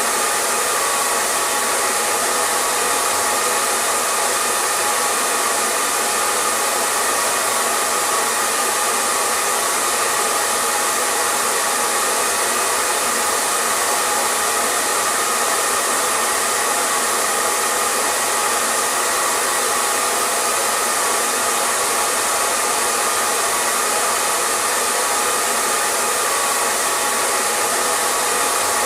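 Hair dryer running steadily: a constant airy rush of blown air with a faint steady motor hum, unchanging throughout.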